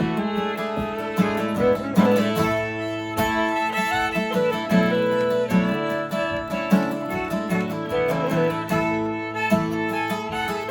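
Fiddle playing a lively folk tune over acoustic guitar accompaniment.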